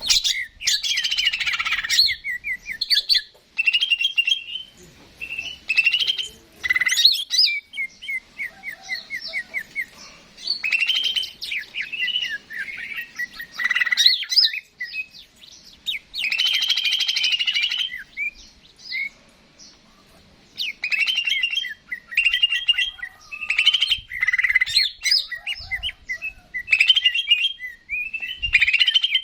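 Green leafbird (cucak ijo) singing a varied, chattering song: phrases of rapid trills, whistled notes and harsh bursts, broken by short pauses.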